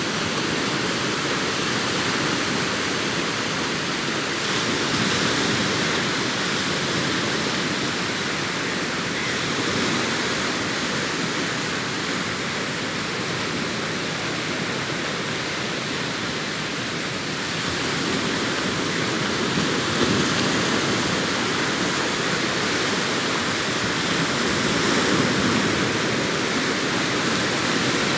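Sea waves breaking and washing on a beach: a steady rushing that swells gently every few seconds.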